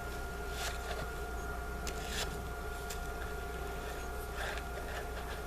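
A few faint, short scrapes and rustles of hand work over a steady hum, as thread is worked off the end of a fitting.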